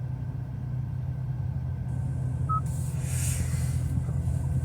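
Hyundai i20N's 1.6-litre turbo engine idling, a steady low hum, with a short electronic beep about two and a half seconds in.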